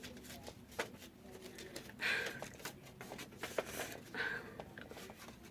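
Paper rustling with scattered small clicks and taps as a greeting card and its envelope are handled and opened.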